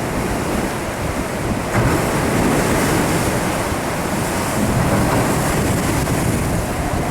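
Heavy tropical-storm surf crashing and washing against the shore, with strong wind buffeting the microphone in a steady roar that grows a little louder about two seconds in.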